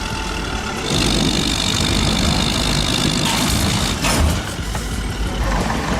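Engine of a heavy vehicle running steadily, with a brief sharp noise about four seconds in.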